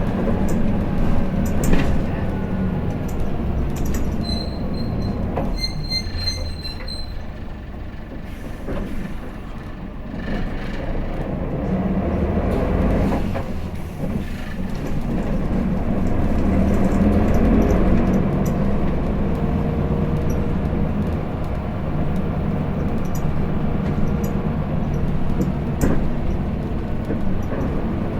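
Hino Blue Ribbon City diesel city bus heard from inside while driving, its engine running under load and easing off twice before pulling up again. A high electronic beeping sounds for a few seconds about four seconds in.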